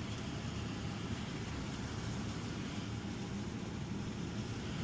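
Steady hum of a car idling, heard from inside the cabin.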